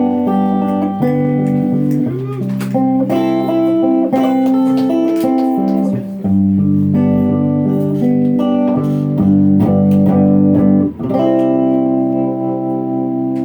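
Electric guitar playing a run of sustained chords without vocals. About eleven seconds in there is a brief break, then a final chord is held and rings out, slowly fading as the song ends.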